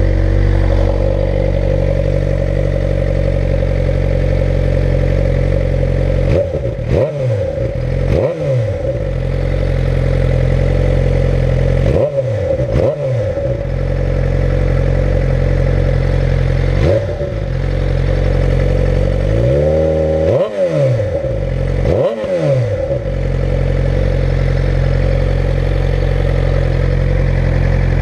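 2011 Suzuki GSX-R600 inline-four engine, breathing through a Radiant Cycles Shorty GP slip-on muffler with the stock header and catalytic converter, idling steadily just after starting. It is given about seven short throttle blips through the middle, the longest about two-thirds of the way in.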